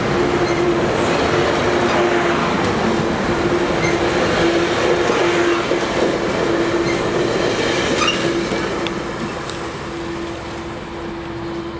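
Sounder commuter train of bilevel coaches pulling out of the station, the cars rolling past with steady wheel-and-rail noise and a constant hum. The sound fades over the last few seconds as the end of the train draws away.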